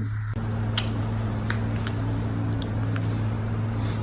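Steady low mechanical hum with an even hiss, like a running motor, with a few faint ticks over it; it cuts off suddenly at the end.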